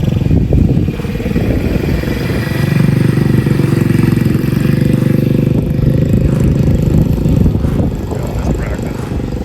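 Mini bike's small engine running, louder for a few seconds in the middle.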